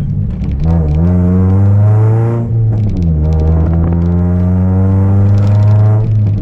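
Chevrolet Celta 1.0 four-cylinder engine breathing through a 4x1 header and a two-inch straight exhaust with no mufflers, pulling under throttle. Its note climbs in pitch, drops sharply about two and a half seconds in as it changes up a gear, then climbs slowly again.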